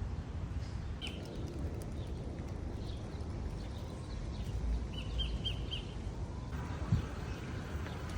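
Small bird chirping outdoors: one short high chirp about a second in, then a quick run of four chirps around five seconds in, over a steady low rumble of wind and distant traffic.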